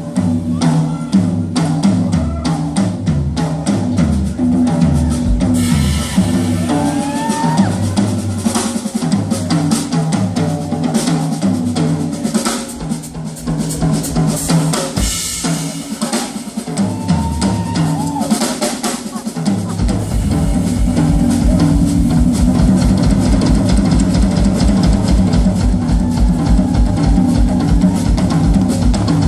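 A live rock band playing, led by the drum kit and bass. About two-thirds through, the drums build into a rapid, pounding bass-drum pattern and the music gets louder.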